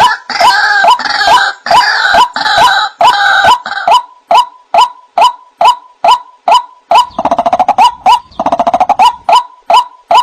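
White-breasted waterhen (ruak-ruak) calling: a steady, loud series of short 'wak' notes, nearly three a second. For the first four seconds a second run of higher, harsher calls overlaps them, and about seven to nine seconds in a grating, buzzy call joins in.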